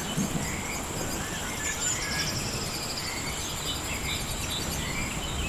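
Rainforest ambience: a steady high-pitched insect drone with pulsing trills, scattered short bird chirps and whistles, over a low steady background hiss.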